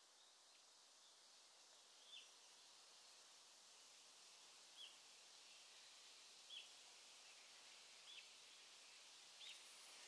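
Faint countryside ambience: a small bird giving five short, sharp single call notes that drop in pitch, one every second or two, over a steady high hiss.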